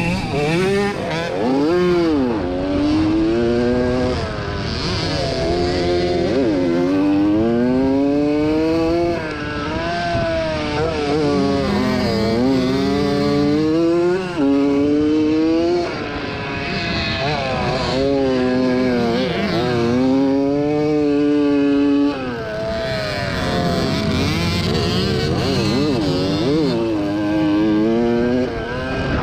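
1987 Yamaha YZ80 two-stroke motocross bike racing: the engine revs climb again and again, each time dropping back as it shifts or the rider rolls off the throttle, with brief lulls where the throttle is shut.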